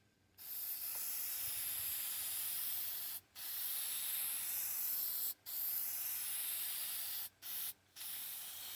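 Aerosol spray paint can spraying in long hisses of about two to three seconds each, with brief breaks between them as the nozzle is released and pressed again.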